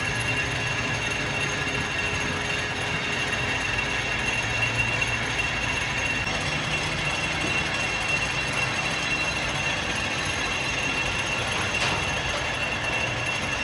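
A workshop machine running steadily, with a rattling, gear-like mechanical noise and a thin high whine held throughout.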